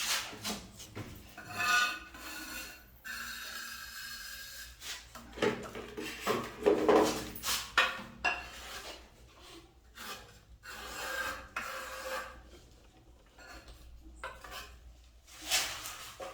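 Irregular scraping and rubbing strokes as white cement is worked around the base of a toilet to seal it to the floor.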